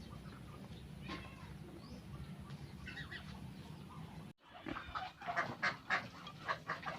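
Domestic poultry calling. A few faint calls sound over a low steady hum, then after a sudden break about four seconds in comes a quick run of louder, short calls.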